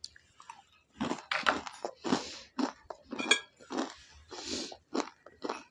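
A person chewing and crunching food close to a clip-on microphone, in irregular bursts. A short metallic clink, a fork on a plate, sounds about three seconds in.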